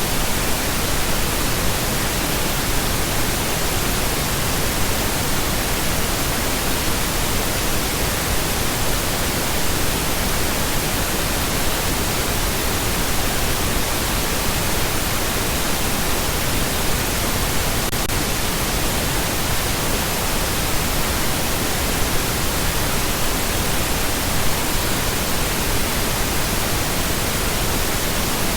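Steady pink noise: an even, continuous hiss spread across the whole range, deeper and softer than white noise, with no changes or breaks.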